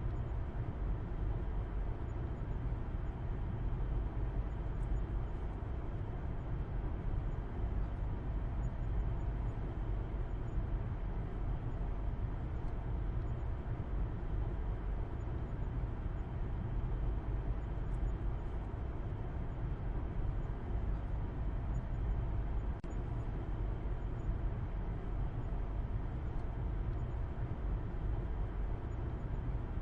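Steady low rumble of a car driving at cruising speed, engine hum and road noise heard from inside the cabin.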